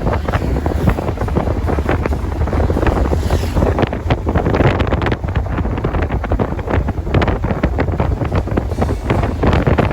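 Wind buffeting the microphone of a moving motorcycle, a steady loud rush with heavy low rumble and crackling gusts.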